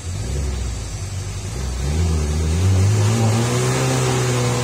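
A road vehicle's engine revving hard under load on a steep climb. It rumbles low at first, then its pitch rises from about two seconds in and holds high and loud.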